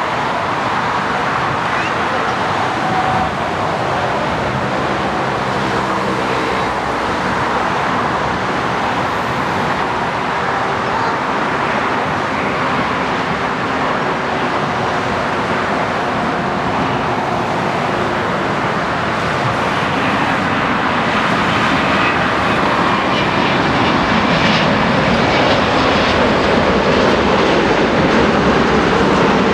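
Airbus A350-900's Rolls-Royce Trent XWB jet engines running, a steady engine noise that grows gradually louder over the last few seconds.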